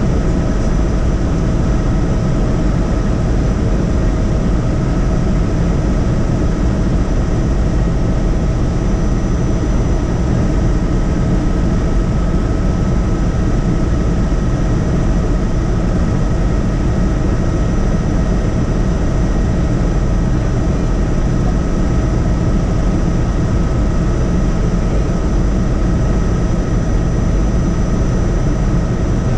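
Helicopter in flight, heard from inside the cabin: a loud, steady drone of rotor and engine, with a few steady high-pitched whines over it.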